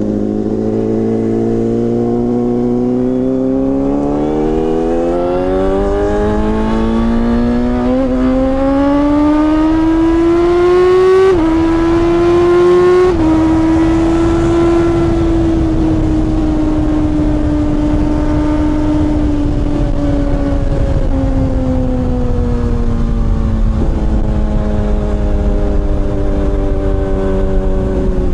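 Honda CBR600RR inline-four through a TOCE aftermarket exhaust, the motorcycle under way: the engine note climbs steadily for several seconds as it accelerates, steps twice, then slowly falls as it eases off. Wind rumble on the microphone rises with speed.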